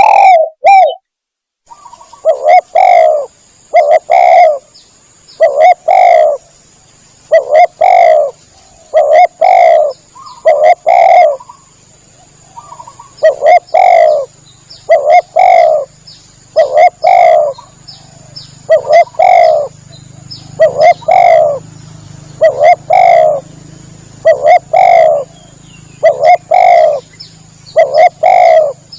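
Spotted dove (tekukur) cooing over and over, a loud coo roughly every one and a half seconds, as played for a hunter's lure call, with a thin steady high-pitched tone behind it.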